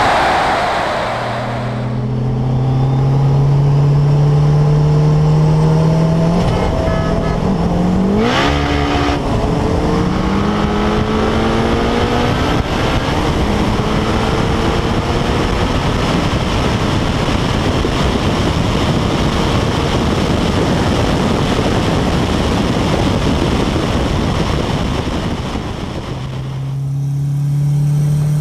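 Car engine at full throttle in a street roll race, its note climbing steadily, with a sharp break about eight seconds in where it shifts. It then gives way to a dense rush of engine and wind noise at high speed. Near the end a different engine note comes in, revving.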